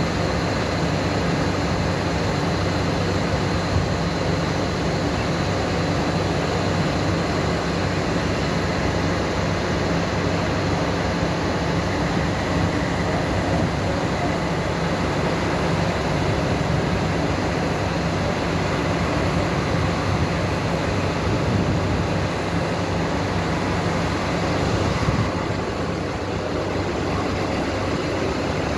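A regional train standing at a platform, its on-board machinery running with a steady, unbroken hum. The sound dips slightly near the end.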